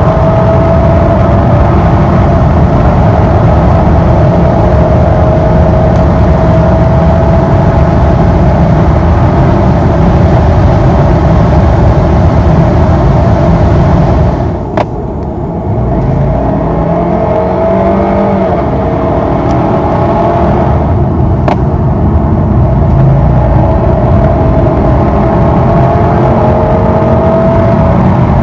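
Lexus GS 200t's 2.0-litre turbocharged four-cylinder engine at full throttle, heard from the cabin, its pitch climbing slowly as the car accelerates in a high gear. After a short break about halfway, a second full-throttle pull begins, the revs rising steadily again with the 8-speed automatic.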